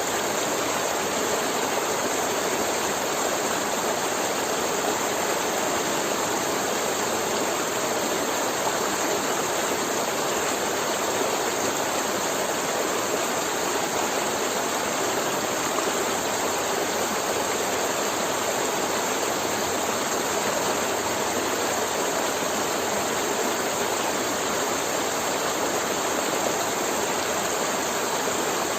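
River water flowing and gurgling over rocks, a steady rushing without change.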